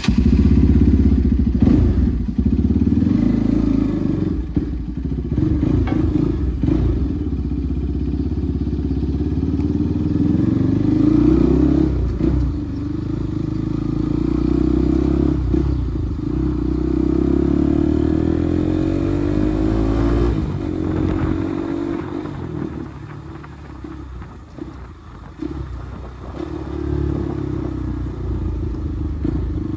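Bajaj Pulsar NS200's single-cylinder engine running loud through an aftermarket Akrapovic exhaust, its revs rising and falling several times, easing off briefly near the end before picking up again.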